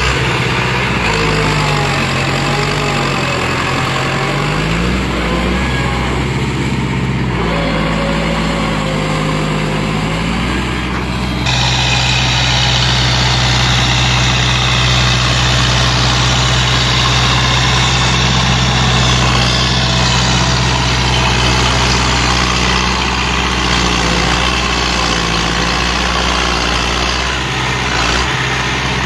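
Tractor diesel engine running, its speed rising and falling a couple of times, then after an abrupt change about eleven seconds in running steadily and a little louder.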